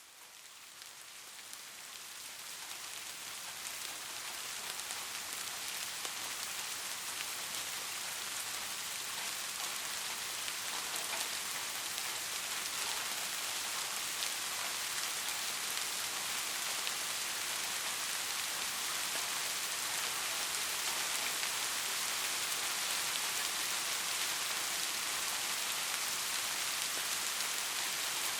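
Steady rain falling on a surface, a dense hiss of drops with fine scattered patters, fading in over the first few seconds and then holding even.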